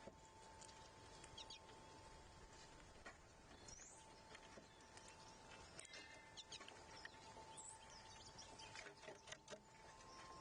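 Faint outdoor ambience at a backyard bird feeder: a couple of brief, high bird chirps and scattered small clicks, over a faint steady high hum.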